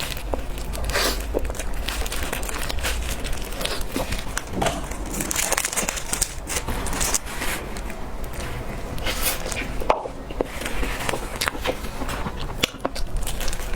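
Close-miked eating of cake: biting and chewing with many short, irregular clicks and crackles.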